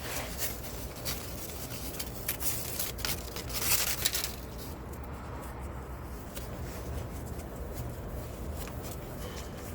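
Hands working repair material around an exhaust pipe: scattered clicks and rustling, with a louder scraping rustle about three and a half seconds in. A steady low hum runs underneath.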